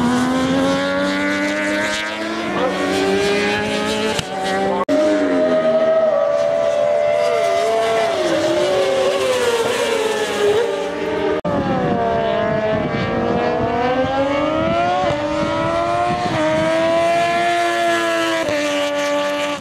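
Several superbike racing motorcycles going past at full speed, their engine notes overlapping and rising and falling through gear changes. The sound cuts abruptly twice, about five and eleven seconds in.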